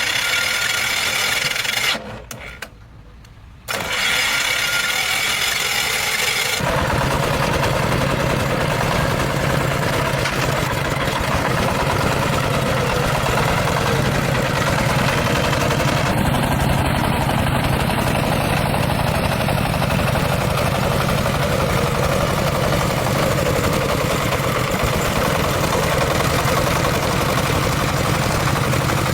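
A farm-vehicle engine being started: a pitched cranking sound in two goes, the first cut off after about two seconds, then from about seven seconds in the engine runs steadily.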